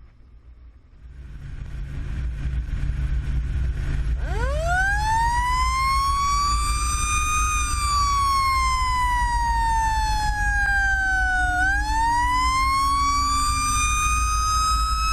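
Fire engine's siren winding up about four seconds in, climbing, slowly falling, then winding up again near the end, over the rumble of the truck's diesel engine.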